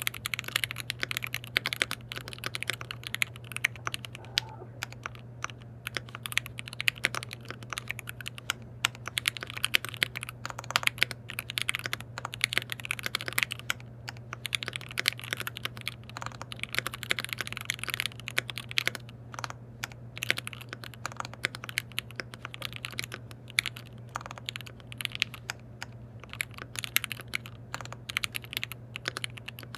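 Typing on a KBD67 Lite R3 mechanical keyboard with lubed linear switches: quick runs of keystrokes broken by short pauses.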